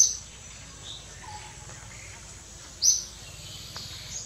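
A bird's short high call, heard twice: once at the start and again about three seconds in, over a faint steady background.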